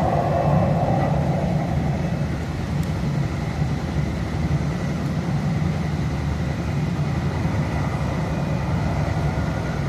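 Steady low rumble and hum of a light-rail train running, heard from inside the passenger car.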